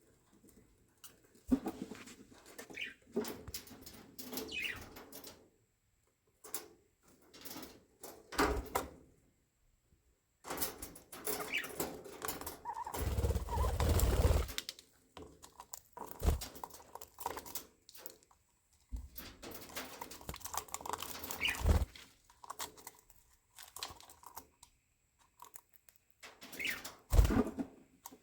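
Budgerigars chattering and chirping in short bursts with quiet gaps between them. A few sharp knocks are scattered through, and there is a longer, louder rustling stretch about halfway through.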